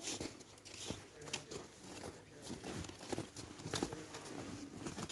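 Snow and ice crunching and crackling in many small, irregular crunches.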